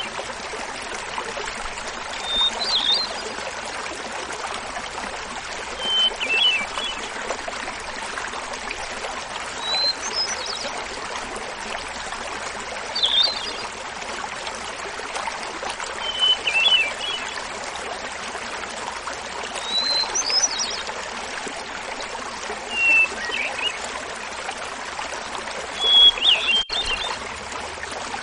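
Hermit thrush singing: a flute-like phrase about every three seconds, each opening on a held note and breaking into a quick fluttering cascade, the phrases shifting between higher and lower pitches. Under it, the steady splashing rush of a small mountain waterfall.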